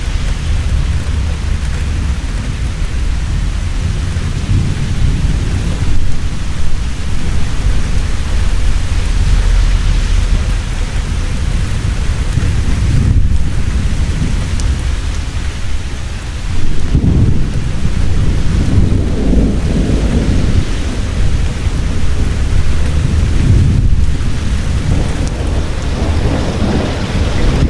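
Heavy rain falling steadily with thunder rumbling underneath, the rumble swelling louder about two-thirds of the way through.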